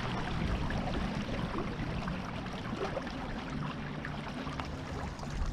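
Water rushing and splashing along a small sailboat's hull, with a faint steady low hum underneath.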